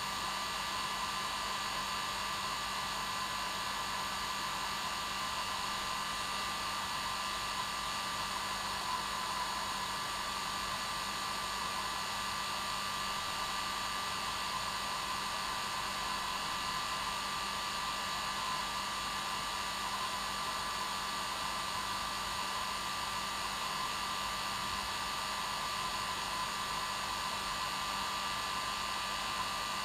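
Hair dryer running steadily: an even rush of blown air, with a constant hum and whine from its motor and fan.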